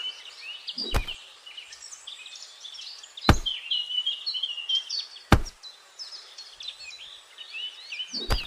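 Birds chirping and singing, with four sharp knocks spaced two to three seconds apart; the two in the middle are the loudest.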